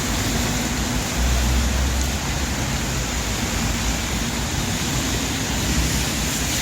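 Steady rain on a city street with road traffic running by; a low vehicle engine rumble swells about a second in.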